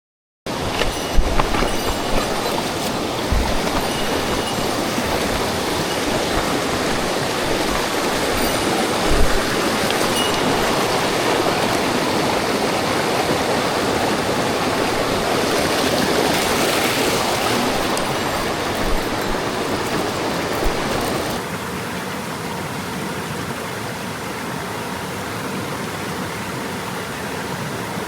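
Rushing water of a mountain stream, a steady loud hiss with a few low bumps in the first seconds. It becomes quieter and loses its low rumble about three quarters of the way through.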